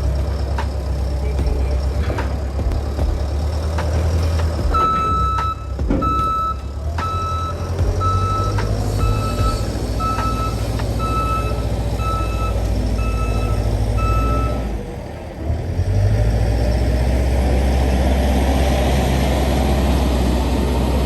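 Heavy diesel engine running with a steady low rumble, while a reversing alarm beeps about a dozen times, roughly once a second, from about five seconds in to about fifteen seconds in.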